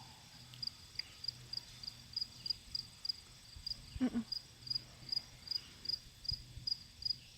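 Crickets chirping in a steady rhythm, about three high chirps a second, over a faint continuous high insect drone. A single short call sliding down in pitch cuts in about four seconds in.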